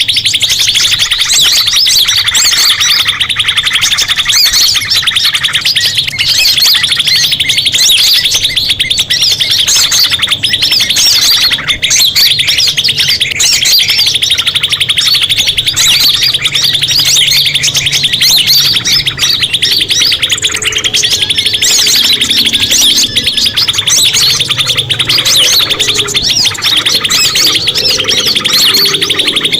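Recorded bird-lure calls: small songbirds chirping in a continuous stream of very rapid, high-pitched repeated notes, in phrases that swell about every three to four seconds.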